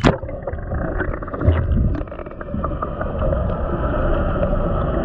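Boat engine running steadily, with wind on the microphone and scattered small knocks.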